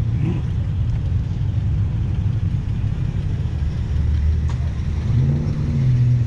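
Car engines rumbling as cars drive off, with one engine revving up about five seconds in.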